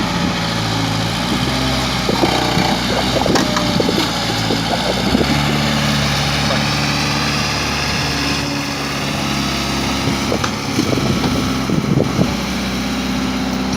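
Heavy vehicle's diesel engine running, its speed shifting up and down a few times, with scattered knocks and clatter over it.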